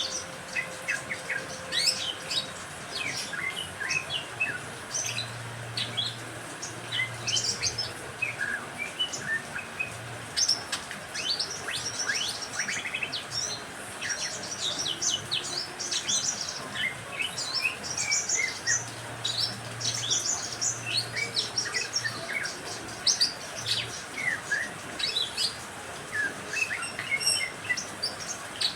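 Mixed cage songbirds (sogon, green leafbird, canary and lovebird) chirping and trilling busily in quick, overlapping high calls. A faint low hum comes in twice.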